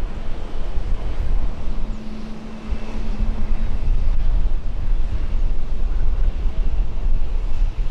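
Jet airliner engine roar heard through heavy wind buffeting on the microphone, with a faint steady engine tone in the middle.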